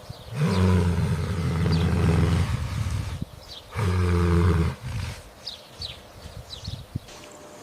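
An animal giving two low, drawn-out calls, the first about two seconds long and the second about a second, with faint high chirps between them.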